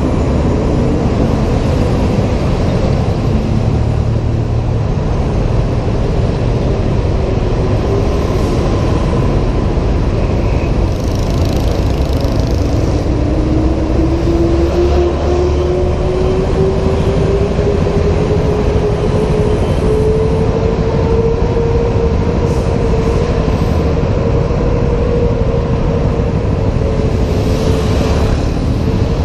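Honda PCX 125 scooter on the move, its engine whine rising in pitch about halfway through as it picks up speed, under a steady rumble of wind on the helmet camera's microphone.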